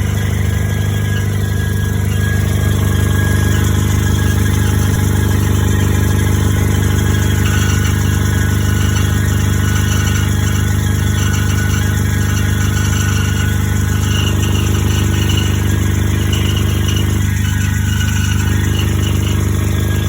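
1998 Honda CR-V's four-cylinder engine running steadily, with an unidentified noise from the front of the engine that started after a new alternator was installed.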